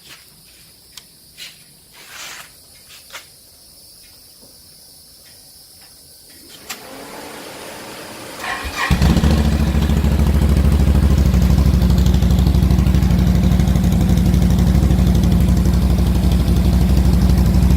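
2018 Can-Am XMR 1000's V-twin engine on its factory stock exhaust being started: a few light clicks, a brief crank about eight and a half seconds in, then it catches and idles steadily and loud.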